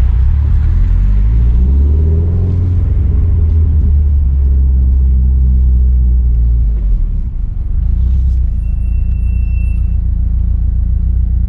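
Subaru Impreza WRX STi's turbocharged boxer flat-four heard from inside the cabin, running low and steady as the car rolls at walking pace, with a brief dip about seven seconds in. Its deep, uneven burble is the idle that comes from sharp camshafts.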